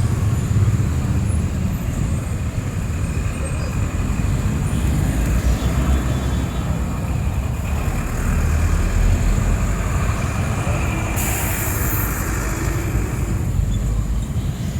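Street traffic on a wet road: vehicle engines running and tyres hissing, with a short, loud hiss about eleven seconds in.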